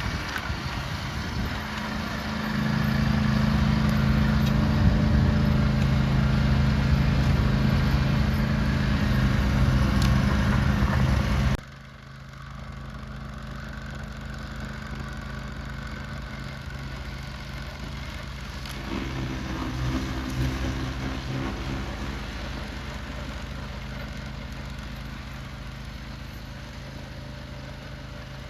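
Engine of a cab-enclosed snow-clearing machine running steadily with a low hum. It is loud for the first part, drops abruptly about eleven seconds in, then carries on more faintly, swelling briefly a few seconds later.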